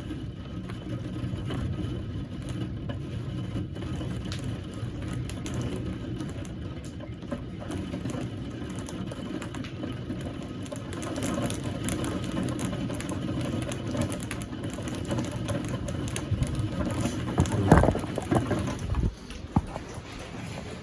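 Car running, heard from inside the cabin as a steady low rumble, with a few short knocks near the end.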